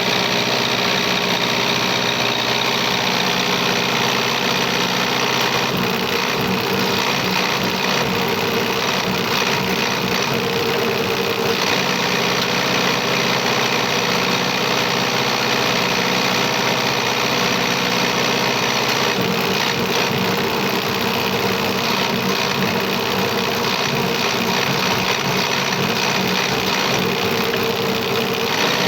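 Fiat 640 tractor diesel injection pump running steadily on a pump test bench, driven for a fuel delivery and pressure setting check.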